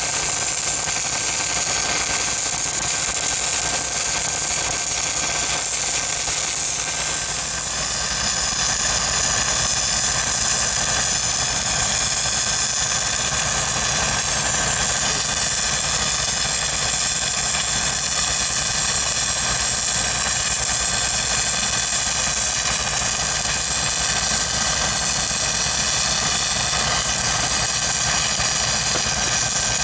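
Engine-driven welding machine on a welding rig running steadily, with a steady hiss over it. About seven to eight seconds in the sound dips briefly, then comes back a little louder and changes in tone.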